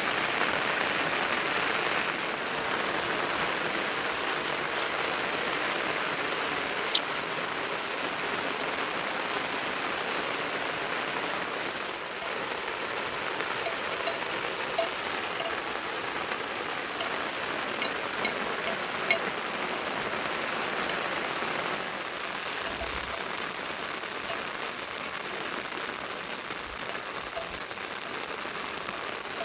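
Steady rain falling and pattering on surfaces, with a few sharp drips standing out, the loudest about a third of the way in.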